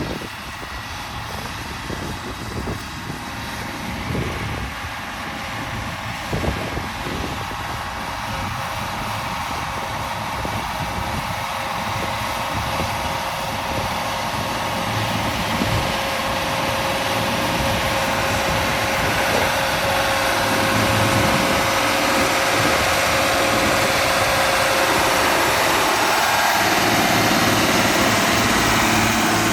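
Deutz tractor's diesel engine running steadily, growing gradually louder through the second half.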